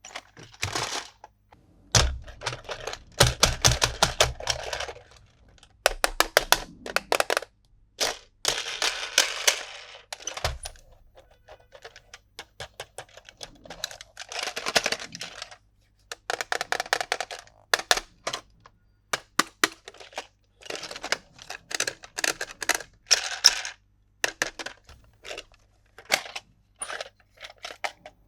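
Hands unboxing and handling a plastic toy playset: bursts of rapid sharp plastic clicks and crinkling packaging rustles, broken by short pauses.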